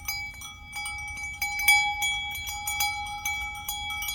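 A metal animal bell, of the kind worn by a sheep in the flock, clanking irregularly with several strikes a second, its few fixed tones ringing on between strikes.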